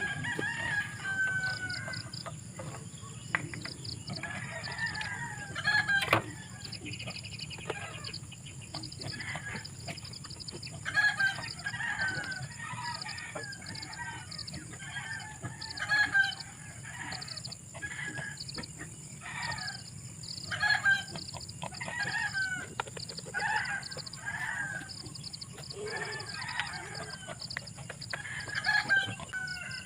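Chickens clucking and calling over and over, short calls with falling pitch. Insects trill steadily behind them.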